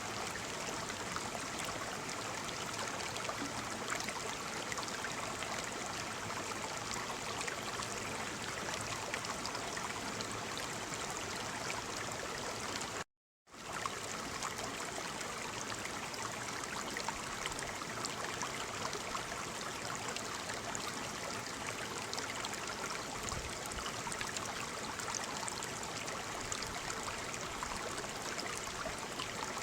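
Waterfall: a steady rush of falling water. About halfway through it cuts out to silence for about half a second, then comes straight back.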